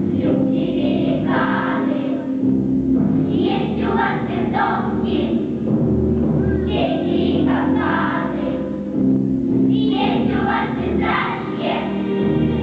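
A children's choir singing with instrumental accompaniment.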